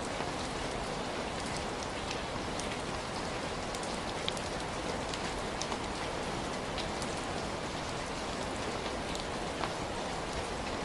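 Heavy rain falling steadily, a dense even hiss with many individual drops ticking sharply on a surface throughout.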